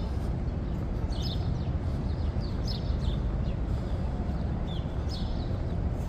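Birds chirping, short high calls scattered through, over a steady low rumble.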